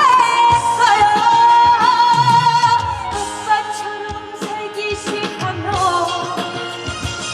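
A singer performing a Korean trot ballad live over a backing band, holding one long note with vibrato for about three seconds, then a second held note near the end.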